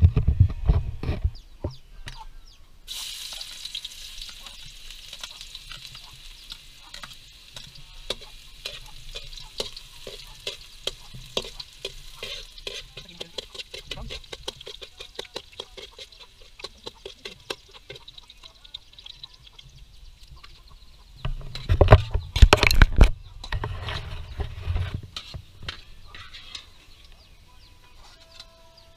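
Food frying in hot oil in an aluminium wok over a wood fire, the sizzling starting about three seconds in. A metal spatula clicks and scrapes against the wok as the food is stirred, with louder clatter at the very start and again about two-thirds of the way through.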